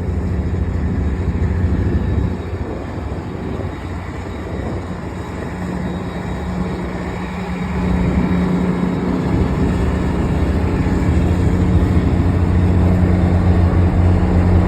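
Diesel locomotive engine running with a steady low drone; about eight seconds in it grows louder and keeps building as the engine throttles up.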